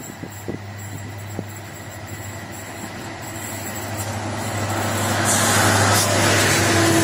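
Diesel freight train approaching and passing close by: a steady low engine hum grows louder, and about five seconds in the wheel and rail noise swells as the locomotives go past.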